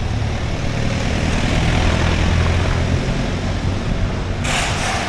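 A motor vehicle's engine running as it goes past, with a low hum that swells to its loudest in the middle and then eases off. A short burst of hiss comes near the end.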